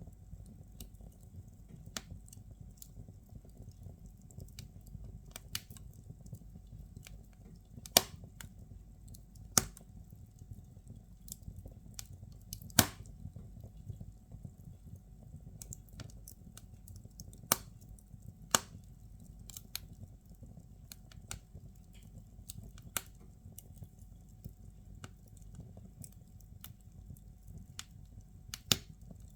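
Wood fire burning in a fireplace: firewood crackling, with sharp irregular pops over a low steady rumble; the loudest pops come about eight, ten, thirteen, seventeen and nineteen seconds in.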